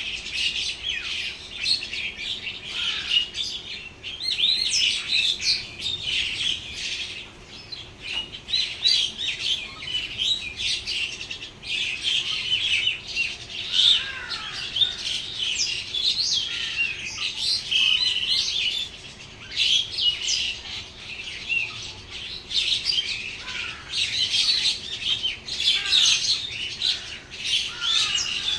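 Many small birds chirping and squawking at once, a dense, continuous chatter of short overlapping calls.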